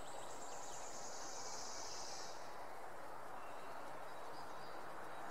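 Faint outdoor nature ambience: a steady low hiss, with a faint high-pitched trill for the first two seconds or so that then fades.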